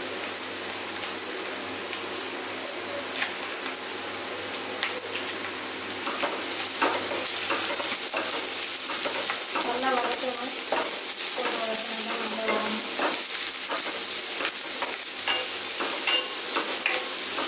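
Chopped onions and crushed garlic sizzling in hot oil in a stainless steel kadai, stirred with a wooden spatula that scrapes and taps against the pan. The sizzle gets louder about six seconds in.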